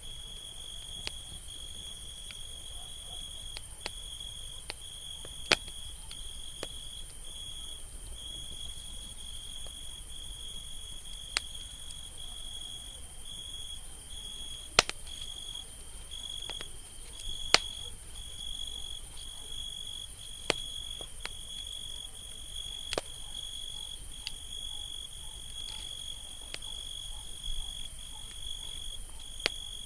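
Campfire crackling, with irregular sharp pops from the burning wood over a low rushing bed. A cricket trills steadily and high-pitched throughout, with brief breaks.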